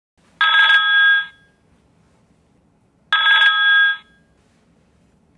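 Cisco IP desk phone ringing for an incoming call: two electronic ring bursts of just under a second each, about two and a half seconds apart.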